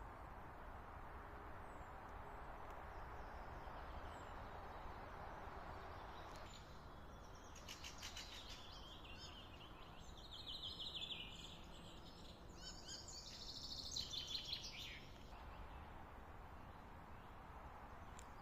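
A small bird singing a series of fast, high chirping trills from about seven to fifteen seconds in, over a steady outdoor background hiss.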